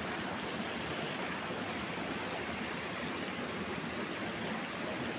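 Steady hiss of light rain falling on the surface of a pond.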